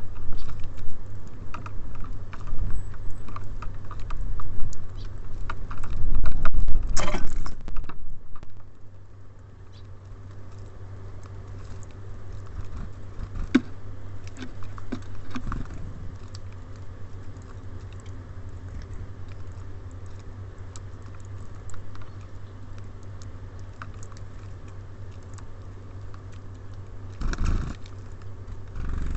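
Small birds at a feeder pecking and cracking seeds, a steady stream of quick light taps and clicks. Louder scuffling and bumping on the feeder in the first several seconds, quieter pecking after, and a brief louder bump near the end.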